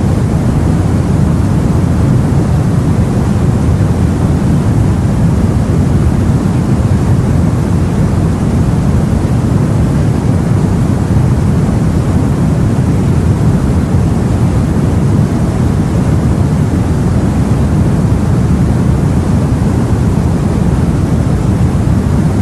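Sea water rushing steadily around a boat, a deep unbroken rumble with no separate wave breaks.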